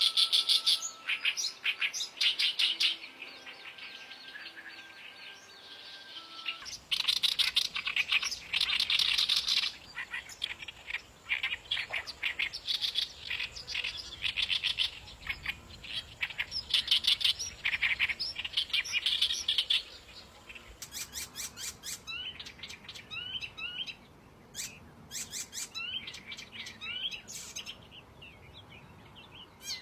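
Oriental reed warbler (Acrocephalus orientalis) singing: loud, harsh, chattering phrases in bursts, with a pause of a few seconds near the start. Over the last third the song thins out into sparser short, rising notes.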